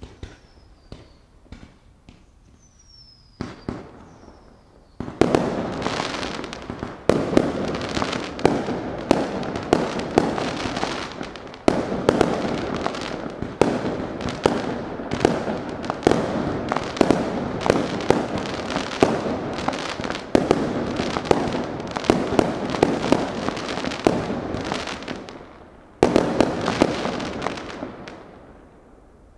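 Fireworks: a few scattered pops and a short falling whistle at first, then from about five seconds in a dense, continuous barrage of sharp bangs over crackling for some twenty seconds. After a brief pause another burst of bangs comes near the end and dies away.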